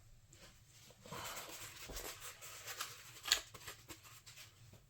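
Faint handling noise of small screws and a screwdriver on an RC truck's metal motor mount: a soft scraping rustle with small ticks, and one sharper click a little past the middle.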